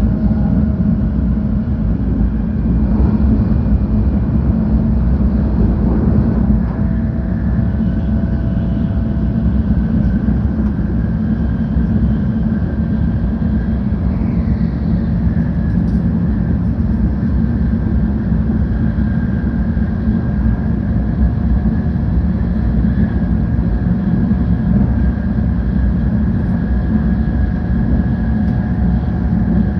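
Cabin noise of a 700 Series Shinkansen train running between stations: a steady, loud low rumble from the wheels and running gear, with faint steady tones above it.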